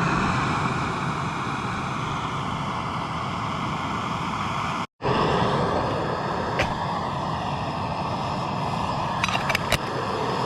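Small gas canister stove burning steadily, its flame hissing as it heats water to the boil. The steady sound breaks off briefly about five seconds in, and a few faint ticks come near the end.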